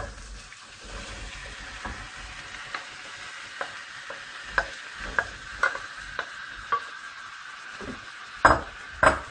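Drained canned broad beans tipped into a stainless steel pot of chopped onion frying in oil: a steady sizzle, with a wooden spoon scraping and knocking every second or so, two louder knocks near the end.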